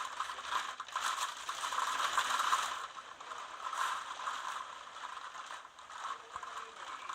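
Fast rattling in typhoon-force gusts of wind, swelling loudest about two seconds in and again briefly near four seconds, then easing off.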